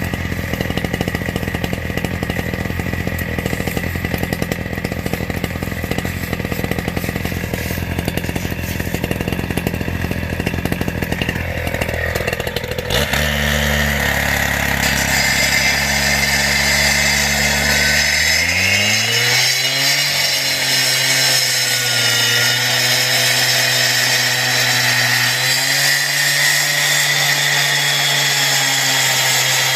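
Husqvarna two-stroke demo saw (gas cut-off saw) running at low speed, then revved up in two steps after about 13 and 18 seconds and held at high speed, its pitch wavering slightly as the blade cuts into a geode rock.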